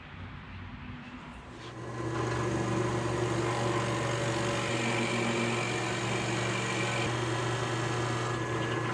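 Electric drill boring the angled leg holes in an ash slab, its motor starting about two seconds in and running at a steady pitch.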